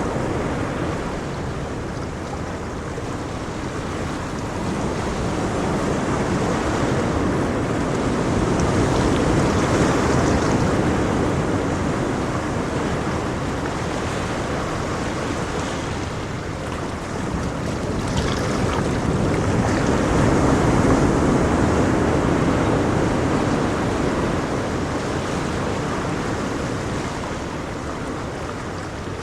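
Ocean waves breaking on a shore, a steady wash of surf that swells and eases slowly, with two louder surges about ten and twenty seconds in.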